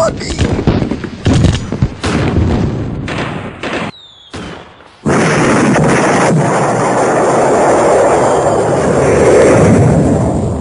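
Dubbed battle sound effects: a rapid string of gunshots and blasts, then a short falling whistle about four seconds in. From about five seconds a loud, sustained rush of noise like a long explosion, fading near the end.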